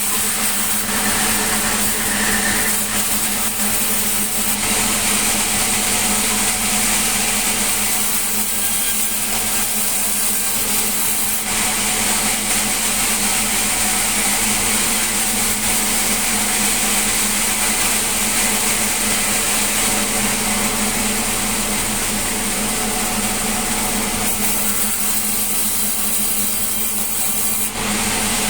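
Sawmill saw running and cutting through a melinjo log: a steady machine hum under the continuous hiss of the blade in the wood, growing fuller through the middle of the cut.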